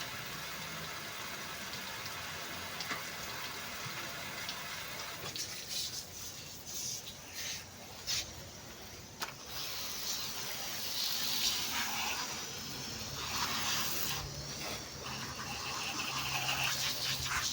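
Water spraying and splashing on a truck being washed: a steady rush at first, then an uneven run of gushes and breaks as the stream moves about.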